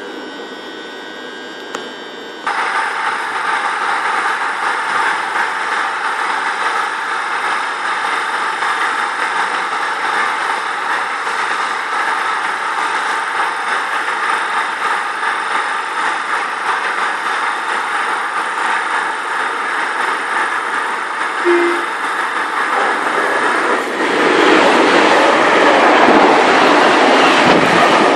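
A train running through a station with a steady hum. It cuts in suddenly about two and a half seconds in and grows much louder near the end as the train comes close.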